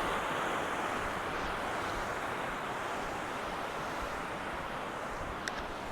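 Steady rushing of a mountain waterfall and river, easing off slightly, with a few light clicks near the end.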